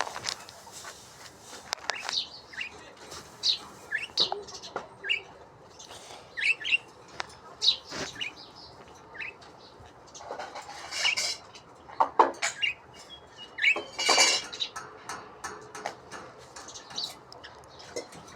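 Small birds chirping repeatedly in short, high calls, with a couple of louder, harsher bursts about halfway through and near the two-thirds mark.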